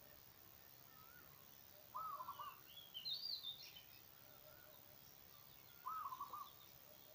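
Birds calling in a rural garden: one bird gives a short call of a few quick looping notes twice, about four seconds apart, with higher twittering chirps from another bird between them and fainter distant calls in the background.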